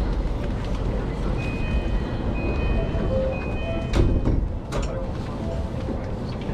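Inside a JR Yamanote Line commuter train carriage: the steady low rumble of the train, with faint high whining tones in the middle and two sharp knocks, the louder about four seconds in and another just before five seconds.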